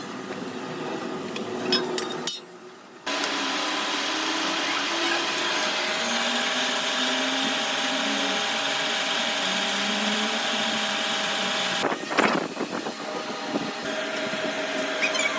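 A workshop machine tool or power tool running steadily, a motor hum with several fixed tones over a noisy grind, starting after a short quieter gap a few seconds in. A brief clatter of knocks sounds about twelve seconds in.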